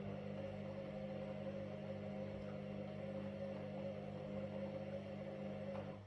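Washing machine running with a steady motor hum, which cuts off at the very end.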